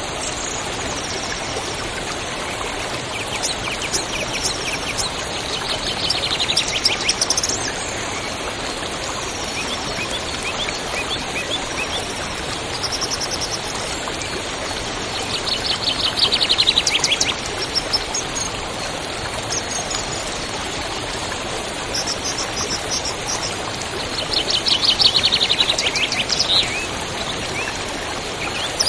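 A river or stream running with a steady rush, with small birds singing over it: fast trills come in three louder bursts, with high thin chirps between them.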